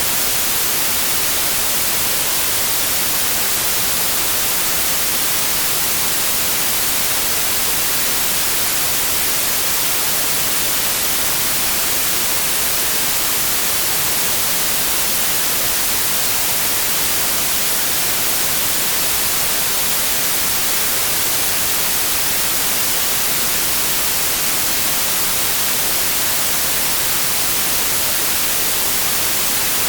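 Steady, unchanging synthetic white noise: an even hiss spread across all pitches, strongest in the treble.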